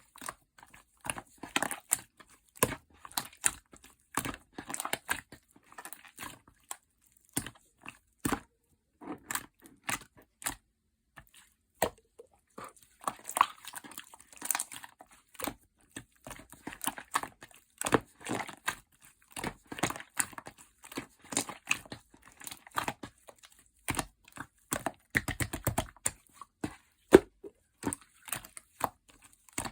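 Slime being squished, pressed and stretched by hand, giving irregular sticky clicks, pops and crackles. A quick run of clicks comes late on.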